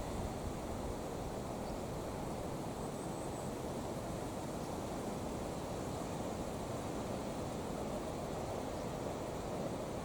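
Strong wind blowing across the microphone: a steady low rushing noise with no breaks.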